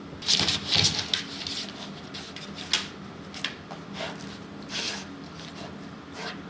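Bursts of rustling and scratching from a cat scuffling with a plush toy dog, thickest in the first second and then in scattered short scrapes.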